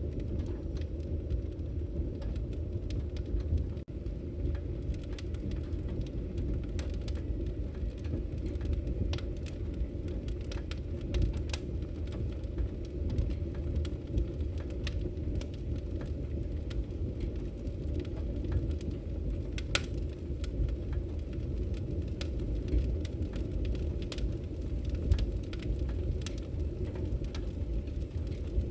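Wood fire in a fireplace burning with a steady low rumble of flames and frequent irregular sharp crackles and pops.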